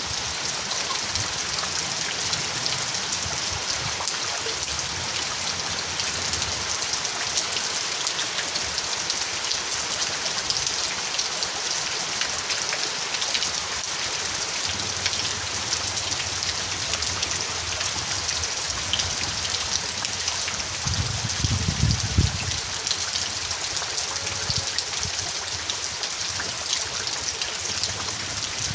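Steady rain falling, a dense even hiss of many drops hitting surfaces. A brief low rumble comes about three-quarters of the way through.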